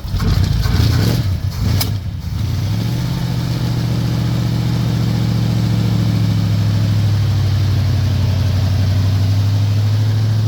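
A 1965 Chevrolet C10 pickup's engine, just caught on a cold start, running unevenly for the first two seconds or so, then settling into a steady idle.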